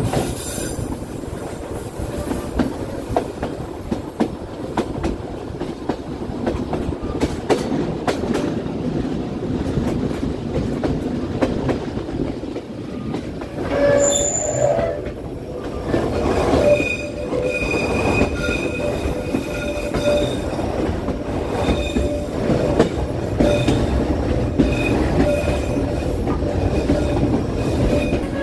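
Passenger train running on the rails with a steady rumble and clatter. From about halfway through, its wheels squeal in thin high tones that come and go as it takes a tight curve.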